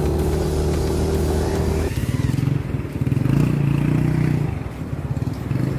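Motorcycle engine running under way, with wind noise. About two seconds in its steady note drops and turns to a lower, pulsing sound.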